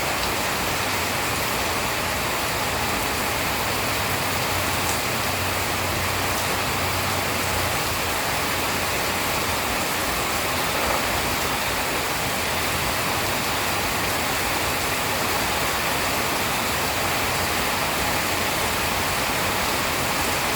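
Rain falling steadily: an even, unbroken hiss with no thunder claps.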